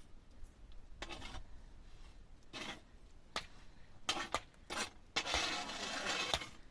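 Irregular scraping and rubbing: a few short scrapes, then a longer continuous scrape about five seconds in.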